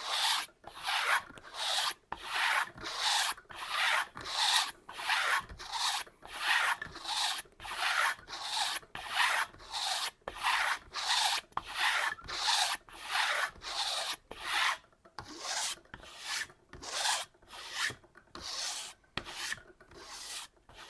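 A long kitchen knife blade being stropped on a hanging kangaroo-leather strop, with even, rhythmic hissing strokes at about one and a half a second. This is the final honing of the edge after sharpening.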